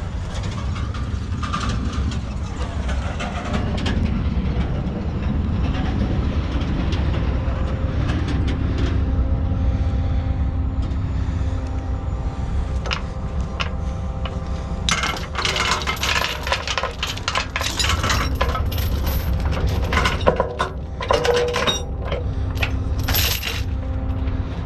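Heavy truck's diesel engine running steadily with a low rumble. From about fifteen seconds in, frequent sharp metallic jingling and clinking rattles over it.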